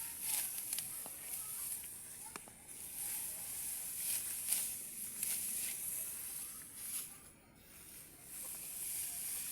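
Crisp rustling and swishing of dry rice stalks in short strokes as they are cut and handled, with a brief pause about seven and a half seconds in.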